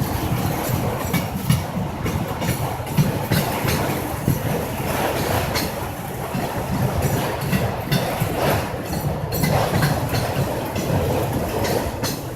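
Freight train of autorack cars rolling past on the rails: a steady rumble with irregular clacks of wheels over rail joints.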